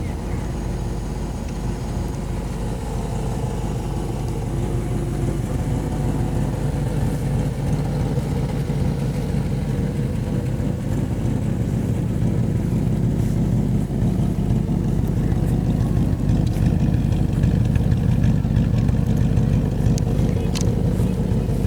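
A 1955 Plymouth Belvedere's V-8 engine running steadily, growing slightly louder over the stretch.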